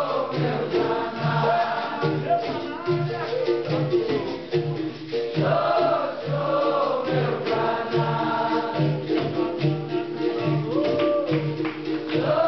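Capoeira Angola roda music: a group singing in chorus over the roda's percussion of berimbau, pandeiro and atabaque, with a steady low drumbeat and a jingling rattle.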